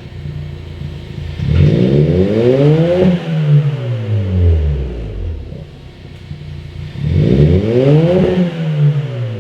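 Suzuki Swift Sport ZC33S's 1.4-litre turbocharged four-cylinder engine breathing through a full-titanium BLITZ NUR-SPEC F-Ti exhaust, revved twice from idle. Each rev rises over about a second and a half, then falls back to idle.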